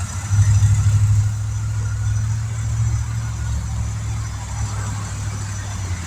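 A steady low engine hum, like a vehicle idling, a little louder for a moment about half a second in.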